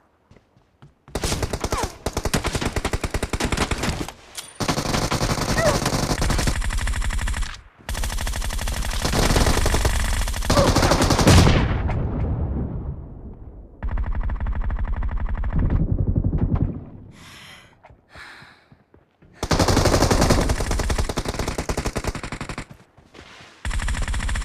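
Video-game automatic gunfire: about six long bursts of rapid fire, each a few seconds long, with short pauses between them.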